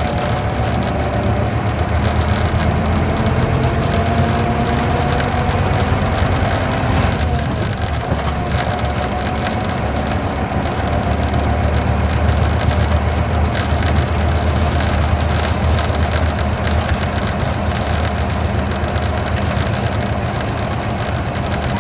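Isuzu Gala coach's V-type diesel engine running under way, heard from inside the bus, with steady low rumble and road noise. A faint whine rises slowly over the first seven seconds, then breaks off.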